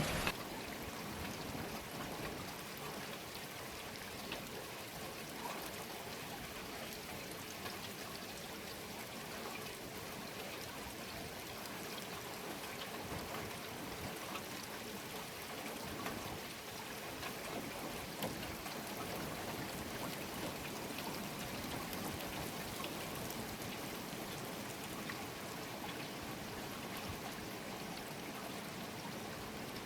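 Steady rain falling, with scattered drops pattering on surfaces and a running trickle of water.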